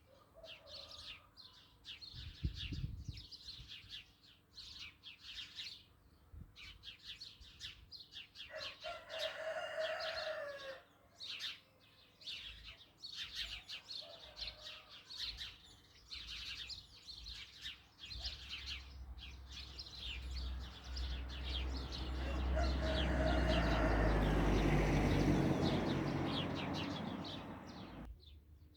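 Small birds chirping in quick, repeated short notes, with a rooster crowing once about nine seconds in. In the second half a broad rushing noise with a low rumble swells up, becomes the loudest sound, then fades and cuts off suddenly just before the end.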